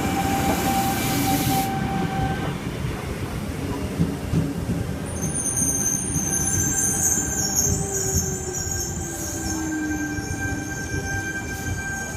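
Tangara electric suburban train pulling into a platform and slowing, with a steady rumble and a whine falling in pitch as it brakes. High-pitched wheel squeal comes in from about halfway through.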